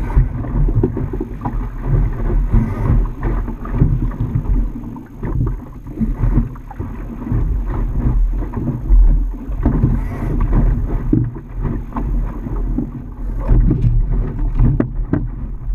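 Wind buffeting the microphone over water splashing and slapping against a small boat's hull, with scattered short knocks.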